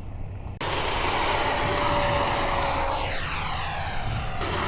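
Electric ducted-fan RC jet passing overhead: a loud rushing hiss with a high fan whine that drops slightly in pitch as it goes by. It comes in suddenly about half a second in. Steady low wind rumble on the microphone runs underneath.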